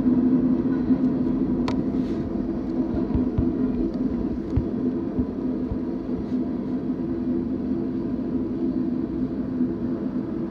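Cars of a manifest freight train rolling past: a steady rumble with a low, even hum, and a sharp clank about a second and a half in.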